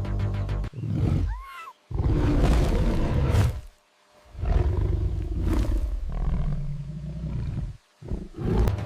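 A big cat roaring in several long roars with brief silences between them. A short rising-and-falling cry comes about a second and a half in.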